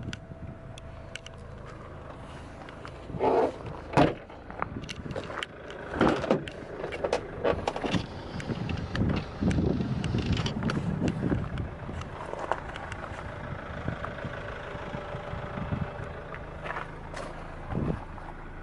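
A car engine, presumably the GM Daewoo Winstorm's, idling steadily, with clicks and knocks of the car being handled around it.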